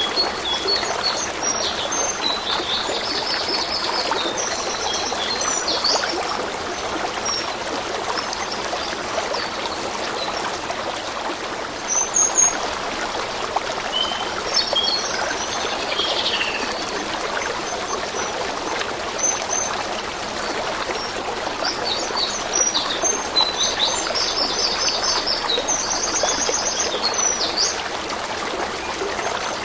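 A stream running steadily, with small songbirds singing in three bouts of quick, high trilled phrases: near the start, in the middle and later on.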